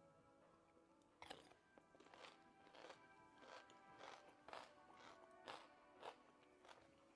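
Soft crunching chewing, a person eating with mouth sounds repeating about every half second to a second, over faint background music.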